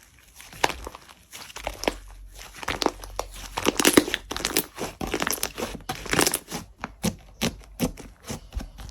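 Slime being squished and worked by hand, a rapid irregular run of crackles, pops and crunchy clicks, thickest about halfway through.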